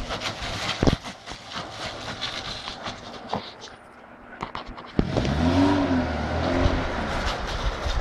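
Car engine revving up and down twice, starting about five seconds in, after a stretch of scattered clicks and crackle.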